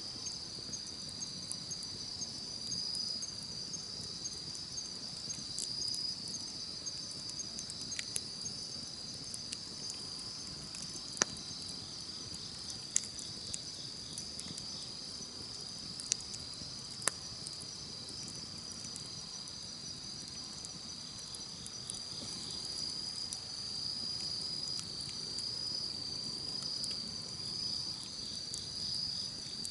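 Insects chirring in a steady high drone over the low hiss and crackle of a wood campfire, with several sharp pops from the fire in the middle of the stretch.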